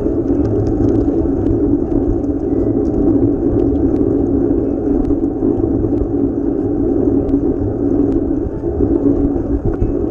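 Steady rumbling ride noise from a moving bicycle: wind buffeting the microphone and road noise, with a few faint ticks.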